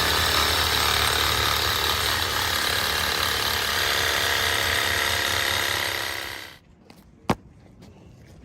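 A power tool running steadily and loudly, cutting off about six and a half seconds in, followed by a single sharp click.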